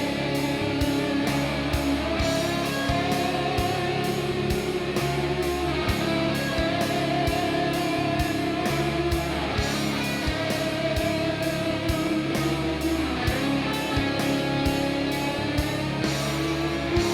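Heavy metal instrumental passage: electric guitars over a steady drum beat, with no vocals.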